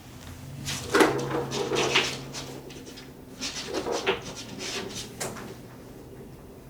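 Kittens scuffling and scratching at close range: a run of rustling, scraping and light knocking noises, loudest about a second in and again around four seconds, over a faint steady hum.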